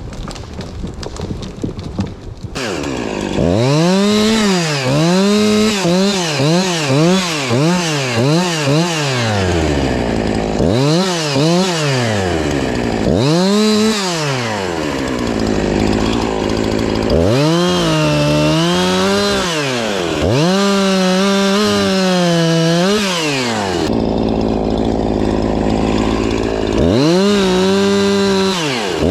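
Two-stroke chainsaw engine revved up and down in quick blips about once a second. It is then held at high revs with small dips as it works, falls back to idle for a few seconds, and revs up again near the end.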